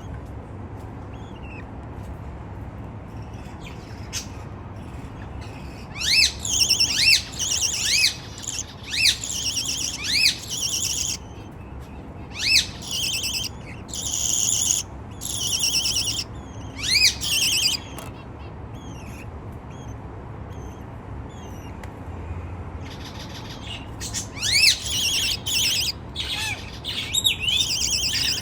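Baby budgerigars calling in repeated raspy, squawking chirps, in clustered bursts from about six seconds in to about eighteen, then again near the end after a pause.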